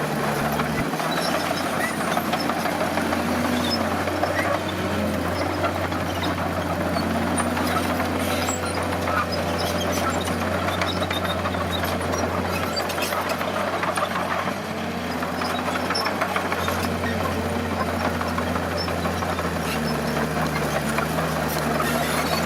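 Bulldozer's diesel engine running steadily under load, its pitch swelling and easing every few seconds as it works.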